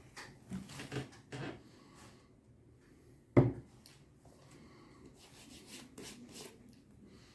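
Shoe-repair handwork: short rubbing and scraping sounds, with one sharp knock a little over three seconds in, the loudest sound.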